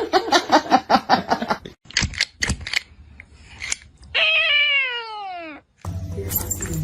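A cat meowing: a quick run of short sounds, then about four seconds in one long meow that slides down in pitch.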